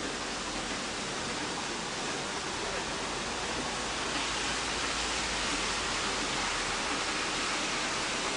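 Rain falling in a steady hiss that gets a little louder about halfway through.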